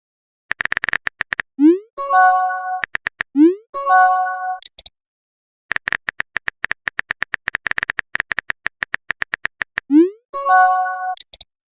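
Phone keyboard typing clicks in quick runs, each run followed by a short rising swoop and a brief two-note chime: text-message typing, send and receive alert sounds, repeated three times, with the longest typing run in the middle.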